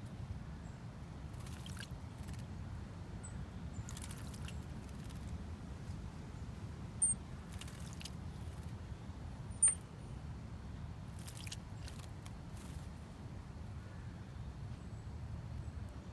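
Small songbirds giving a few short, high chirps, the two loudest about seven and ten seconds in, over a steady low outdoor rumble, with several brief rustling bursts in between.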